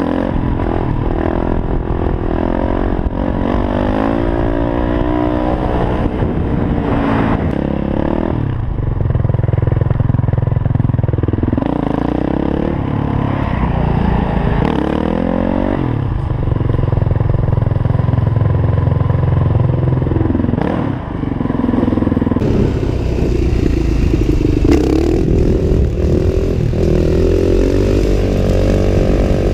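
Yamaha WR450F supermoto's single-cylinder four-stroke engine running under hard throttle, its pitch rising and dropping again and again as the rider revs it and rolls off.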